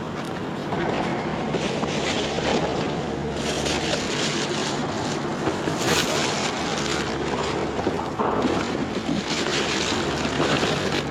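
Rummaging through dumpster contents: plastic and paper rustling with many short clatters and knocks of handled items, over a steady low hum.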